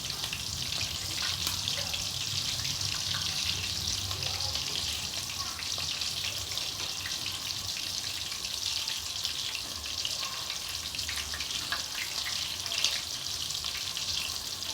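Chicken and mushroom gravy simmering in a pan: a steady sizzling hiss with small scattered pops.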